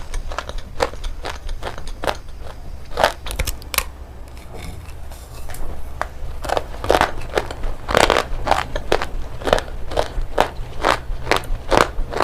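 Pieces of shale stone being bitten and chewed close to the microphone: irregular sharp crunches, several a second, with a quieter lull about four to six seconds in.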